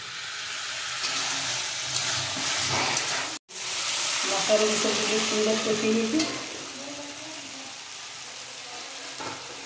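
Vegetables frying and sizzling in oil and spice paste in a large aluminium kadai, stirred and turned with a metal spatula. The sizzle is stronger in the first half, cuts out completely for a moment about three and a half seconds in, and is fainter after about six seconds.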